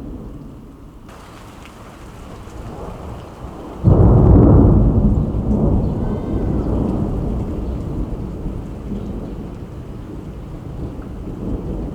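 Thunder over steady rain: a sudden loud clap about four seconds in, then a deep rumble that rolls on and slowly fades.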